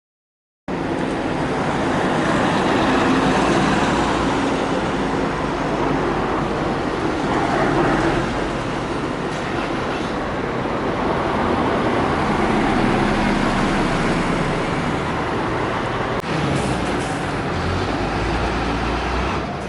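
Steady engine and road noise of a moving city bus, cutting in abruptly less than a second in.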